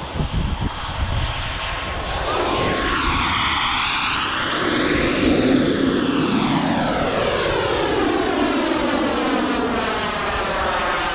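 Turbine-powered RC model jet flying a low pass: a steady high turbine whine over a rushing engine noise. The sound swells and sweeps in tone as the jet passes closest, about five seconds in, then carries on loud as it flies on.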